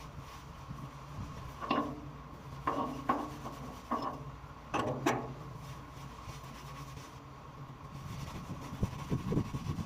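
Hand tools knocking and clinking against metal hydrant fittings: about six short, sharp knocks in a few seconds, some in quick pairs, over a steady low hum.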